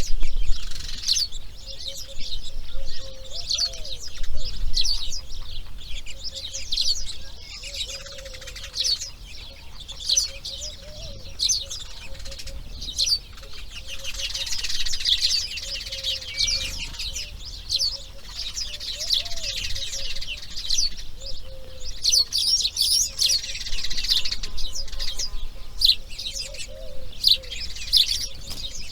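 Many birds chirping rapidly and continuously, busiest about halfway through and again near the end, with a lower arched call heard now and then.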